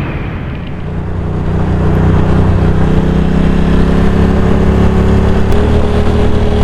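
Motorcycle engine running steadily at idle, its pitch creeping up slightly and then stepping up a little near the end.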